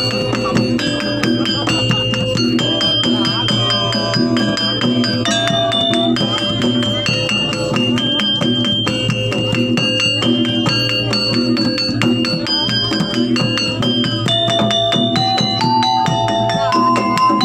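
Live jaranan music: a melody of held notes stepping from pitch to pitch over busy, rapid percussion, played steadily without a break.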